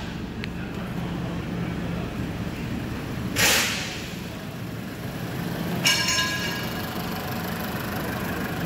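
2018 Alfa Romeo Stelvio's 2.0-litre turbocharged four-cylinder petrol engine idling steadily. A brief hiss about halfway through and a short ringing metallic clink about two-thirds through.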